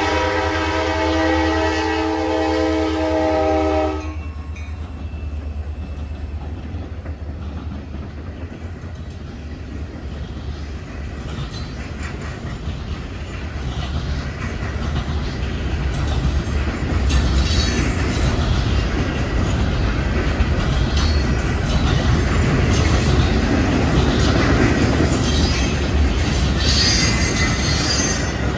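Wheeling and Lake Erie freight train at a crossing: the diesel locomotive's multi-note air horn sounds a sustained chord that cuts off about four seconds in. Then the engine rumbles and the cars roll by with clickety-clack wheel noise, getting louder over the second half.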